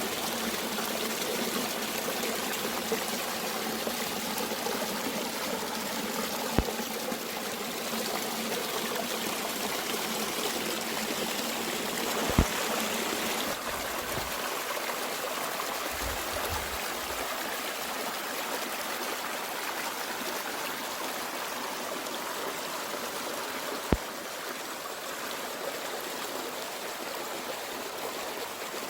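Mountain stream running steadily with an even rushing sound. Three brief sharp knocks stand out, about a quarter of the way in, near the middle and toward the end, and there are short low rumbles just past the middle.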